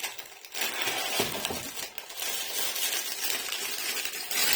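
Supermarket burger packaging being opened and handled: a continuous rustle with scattered small clicks, starting about half a second in.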